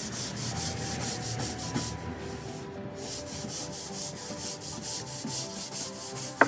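Rapid back-and-forth rubbing strokes on wooden deck boards in a steady rhythm of about five strokes a second, like hand sanding or scrubbing of the wood.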